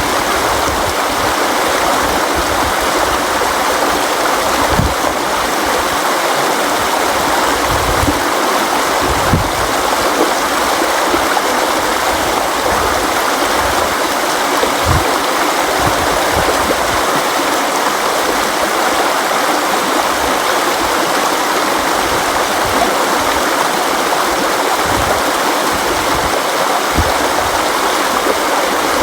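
River water flowing and rushing steadily, with occasional brief low splashes.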